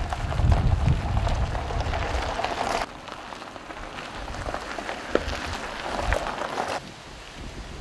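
Mountain stream water rushing over rocks, a steady hiss like rain, with a heavy low rumble in the first three seconds. The sound changes abruptly about three and seven seconds in.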